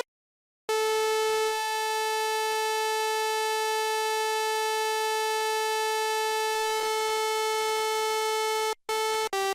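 DSI OB-6 analog synthesizer holding one steady, buzzy note for about eight seconds, its tone thinning slightly about a second and a half in, followed by two short notes near the end.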